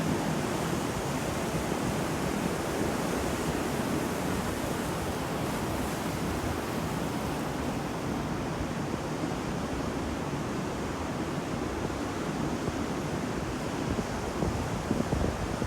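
Sea waves washing onto a shore, a continuous roar of surf without any distinct single break.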